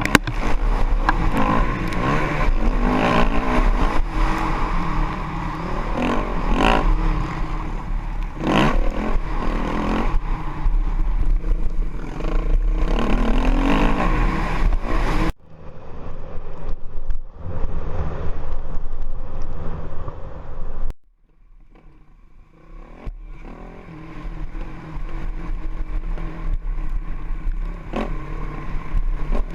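Honda CRF450X single-cylinder four-stroke dirt bike engine revving and pulling under load as it is ridden. About halfway through the sound drops abruptly and turns duller, dips almost to silence briefly, then builds back up.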